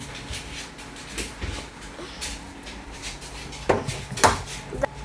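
A few sharp knocks and clicks of things being handled in a kitchen, the loudest near the end.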